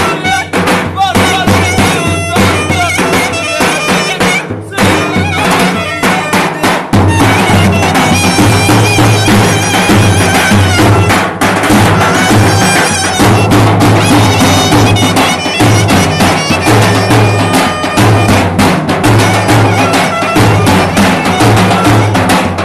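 Loud traditional folk music: a reedy, bagpipe-like wind instrument playing over drums, with a heavy drum beat coming in strongly about seven seconds in.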